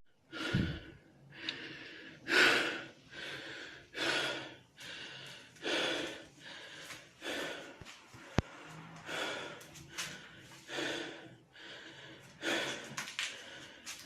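Rhythmic, wheezy breathing, one breath a little more than once a second, with a single sharp click about eight seconds in.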